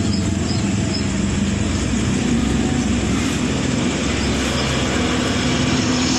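Steady motor-like rumble under an even hiss.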